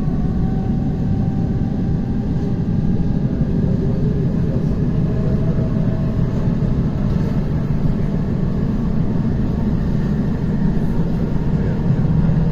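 ER9T electric multiple unit under way: a steady low rumble of wheels on the track with a faint whine above it.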